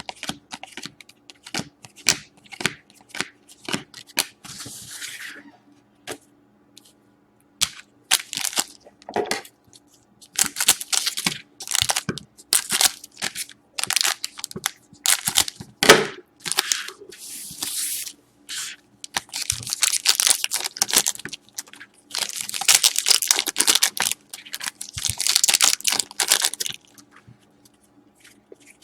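Trading-card pack wrappers being torn open and crinkled, with many short clicks and snaps as cards and packaging are handled. The rustling grows dense and continuous in repeated bursts over the second half.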